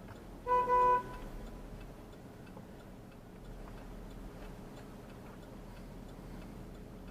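A car horn sounds once, a loud steady honk about half a second long, about half a second in. After it there is faint ticking over a low steady background.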